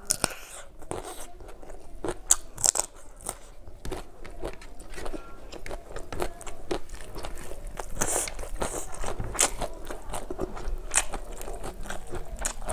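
Close-miked chewing of a mouthful of rice and fish curry, with many sharp wet mouth clicks and smacks scattered irregularly throughout.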